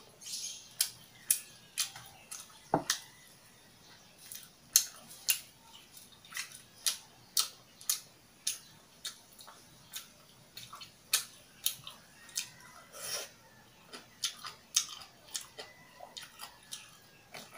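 Close-miked chewing of a mouthful of kimchi and ramen, with crisp, wet crunches about twice a second.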